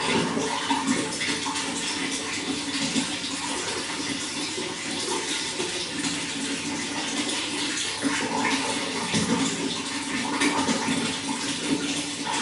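Running water: a steady, unbroken flow with a churning, splashing texture.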